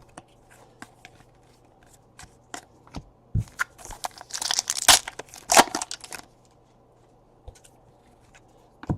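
A foil trading-card pack being torn open by hand, with crinkling from about three and a half to six seconds in. Before that come light clicks of cards being handled.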